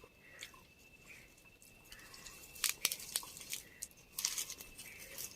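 A person chewing and crunching crisp food up close, in two bursts of crackling bites, one about two and a half seconds in and one about four seconds in, over a faint steady high-pitched tone.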